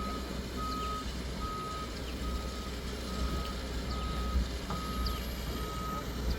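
Reversing alarm on heavy construction machinery beeping steadily, about one beep every 0.8 s, all at one pitch, over a diesel engine's low rumble. A single sharp click comes about two-thirds of the way through.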